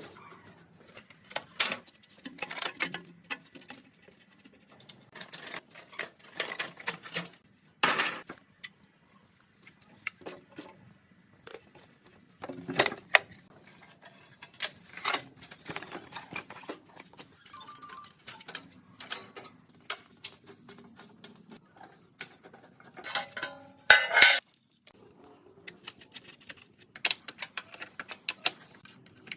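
Metal tools and small metal parts clinking and clattering as they are handled, in irregular bursts, with the loudest clatters about eight seconds in and near the middle-to-late part.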